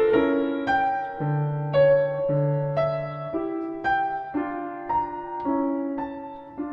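Solo piano playing a slow piece: a melody of separate notes over held low bass notes.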